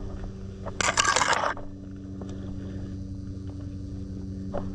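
A brief, loud scraping rustle about a second in, over a steady low hum.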